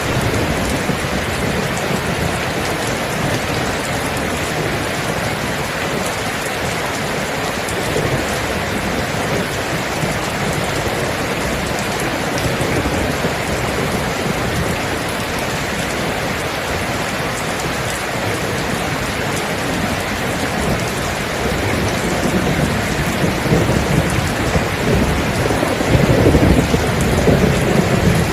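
Steady heavy rain, with a low rolling rumble of thunder building in the second half and peaking near the end.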